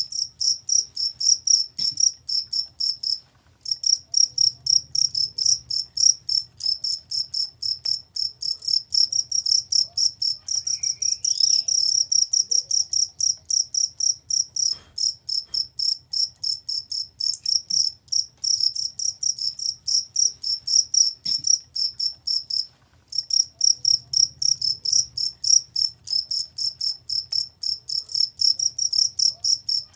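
Cricket chirping: a fast, even train of shrill high-pitched pulses, several a second, breaking off briefly twice before starting again.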